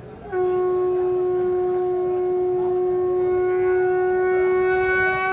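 A conch shell blown in one long, steady note, starting a moment in, with its upper overtones growing brighter partway through.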